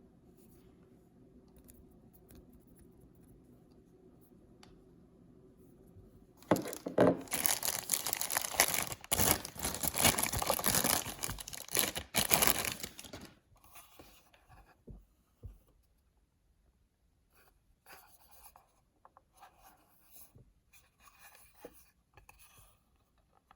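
Blind-bag packaging being torn open: a loud tearing and ripping that starts about six seconds in and lasts about seven seconds, after a faint steady low hum. Quieter scattered rustles and clicks of the packaging being handled follow.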